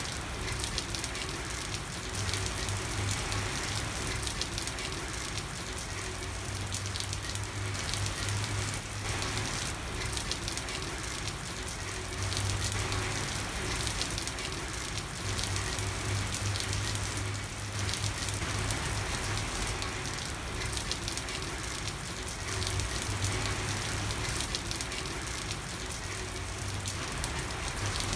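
Steady rain falling on a street, a dense patter of drops with a low rumble that swells and fades every few seconds.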